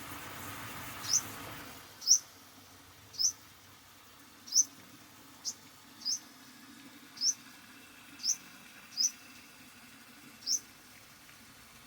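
Purple sunbird giving sharp, high single chirps about once a second, ten in all. A soft hiss of background noise fills the first couple of seconds.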